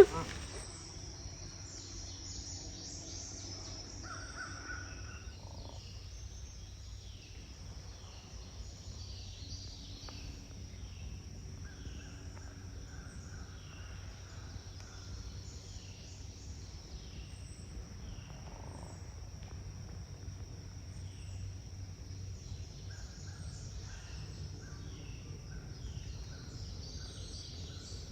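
Outdoor aviary ambience: birds giving short, falling chirps about once a second, with a few buzzy calls, over a steady high-pitched drone.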